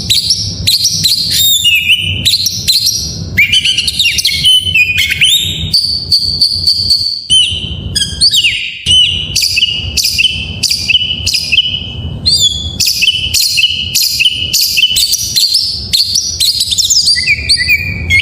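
Oriental magpie-robin (kacer) singing its full song packed with mimicked phrases: a fast, unbroken stream of varied whistles, trills and sharp chirps, with a run of repeated whistled notes in the second half. It fades out at the very end.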